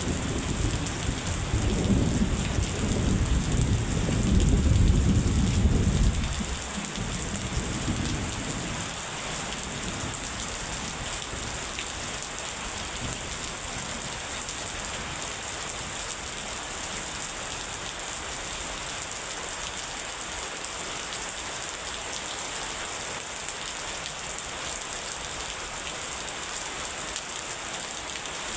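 Steady rain falling, with a long low rumble of thunder that fades away about six to eight seconds in; after that only the rain.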